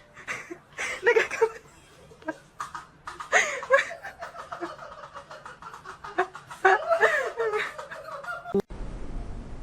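Laughter in several short bursts, with the sound cutting off abruptly near the end.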